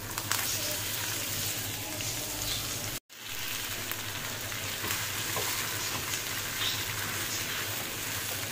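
Potato-and-pea samosa stuffing sizzling in hot oil with cumin seeds in a non-stick frying pan as it is stirred and scraped with a wooden spatula, the stuffing being lightly fried. The sound cuts out for an instant about three seconds in.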